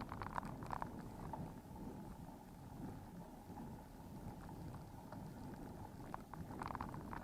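Steady low rumble of wind and road noise on a camera mic while cycling, with bursts of light rattling clicks at the start and again near the end.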